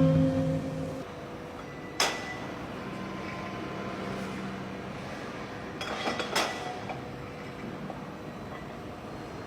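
Background music ends within the first second, leaving a steady low hum with a single sharp knock about two seconds in and a few clinks and knocks of hard objects around six seconds.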